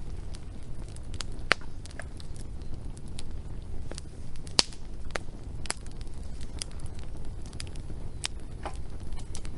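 Wood fire crackling, with irregular sharp pops, the loudest about halfway through, over a steady low rumble.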